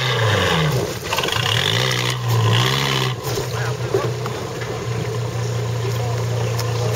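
Trial 4x4's engine under load as it climbs a steep bank: its pitch drops and rises several times in the first three seconds, then holds steady for the rest.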